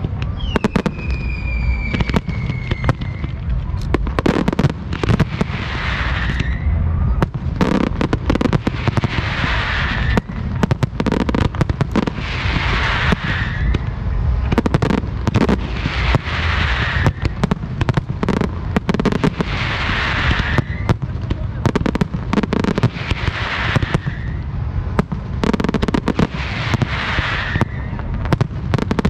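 Aerial fireworks display: a rapid, continuous barrage of bangs and crackling shell bursts. A falling whistle sounds near the start, and a hissing rush swells and fades about every three and a half seconds.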